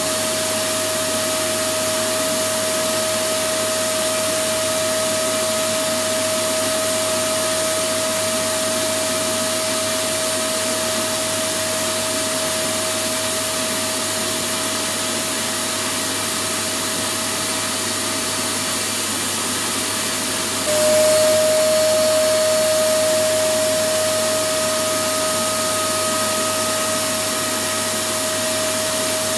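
Electric vacuum cleaner running continuously: a steady rush of air with a constant motor whine. About two-thirds of the way through, the whine drops slightly in pitch and the sound gets a little louder, then eases back.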